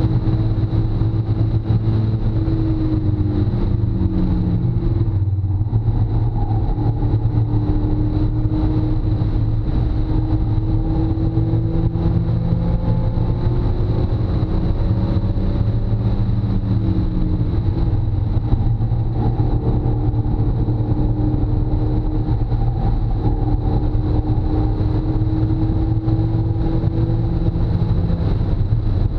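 Car engine heard from inside the cabin while driven hard on a race track, its pitch climbing and falling as the revs change, with a brief drop about five seconds in. A heavy, steady rumble of wind and road noise runs underneath.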